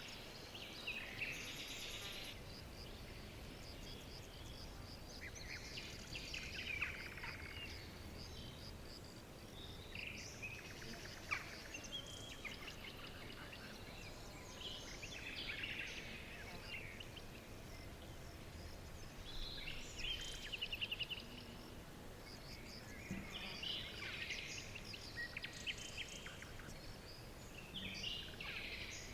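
Songbirds chirping and trilling in short clusters every few seconds, over a steady background hiss.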